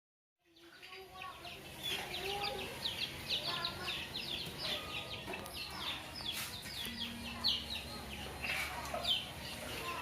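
Chickens calling: many short, high peeps falling in pitch, several a second, with some lower clucking under them. The sound starts abruptly about half a second in.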